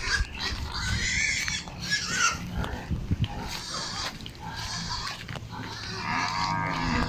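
Farm animals calling: several short, rough calls and a longer pitched call near the end, over a low rumble.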